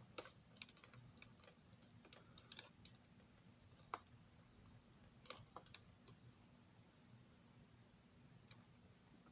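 Faint, scattered small clicks and taps from handling a model railroad passenger car, irregular over the first few seconds, with a sharper click about four seconds in and a few more after it.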